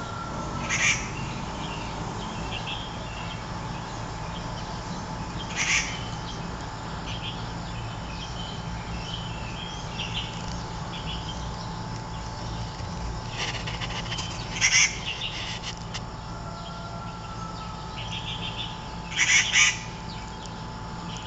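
Birds calling outdoors: four short, loud, shrill calls spread through, the last a quick double, with softer chirps between them, over a steady faint hum.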